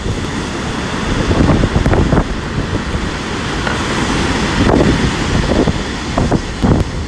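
Strong storm wind buffeting the microphone in gusts, over the rush of heavy surf breaking on the shore.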